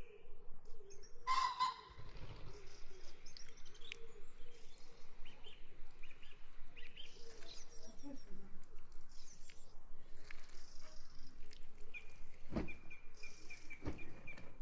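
Small birds chirping, a run of many short high calls one after another, with two dull knocks near the end.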